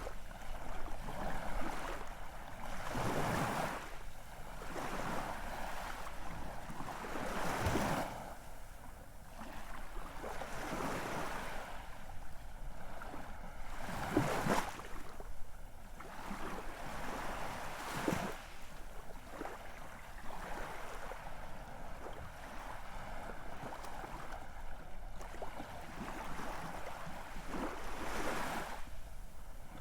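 Ocean surf: a steady wash of waves rising and falling, with a wave breaking and sweeping in every few seconds.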